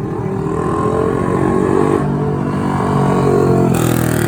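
A vehicle engine revving, its pitch climbing over the first two seconds and then holding high, with a burst of hiss near the end.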